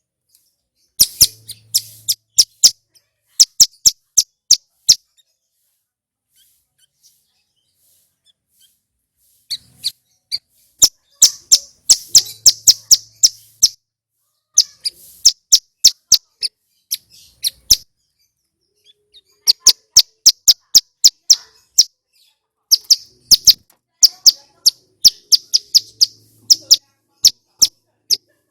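A male ciblek gunung (prenjak gunung, a prinia) singing loud, sharp, rapid chirping notes in repeated runs, with a pause of a few seconds after the first two short runs.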